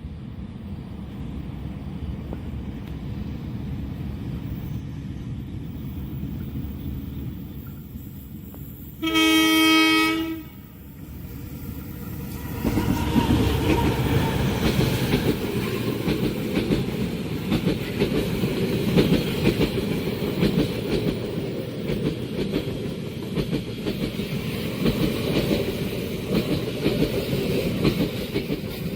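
A long-distance Indonesian passenger train approaches with a growing rumble and sounds a loud multi-tone horn once, for about a second and a half, about nine seconds in. From about twelve seconds in it passes close by with a heavy rumble and the clickety-clack of its wheels over the rail joints.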